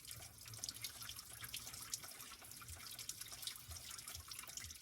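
Engine coolant spilling from a just-disconnected coolant hose, heard as faint, scattered dripping and trickling.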